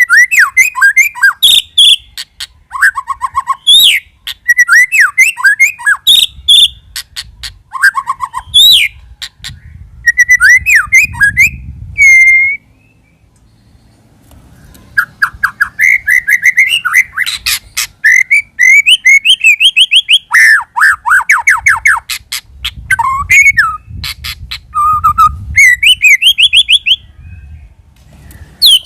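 White-rumped shama singing a loud, varied song of rich whistled phrases and rapid trills, pausing for about two seconds midway.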